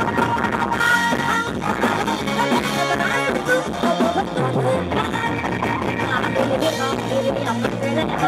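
Loud music played through the speakers of a rot hae, a Thai procession sound truck, with a steady bass line.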